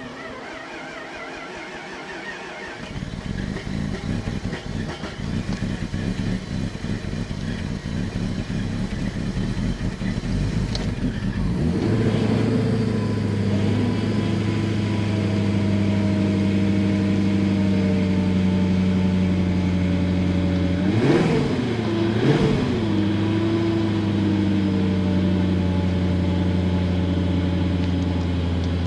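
BMW diesel engine cold-starting in deep frost: it catches and runs rough and uneven at first, then settles into a steady idle about twelve seconds in. It is revved briefly twice, two quick blips a second apart, about two thirds of the way through.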